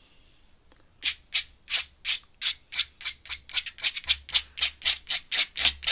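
Quick, even, scratchy strokes from art materials being worked at the drawing desk, about three a second and quickening to about four a second.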